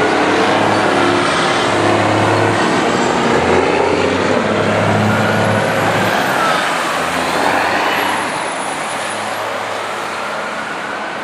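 Heavy road vehicle running close by, a loud steady rumble with road noise that eases off over the last few seconds as it moves away.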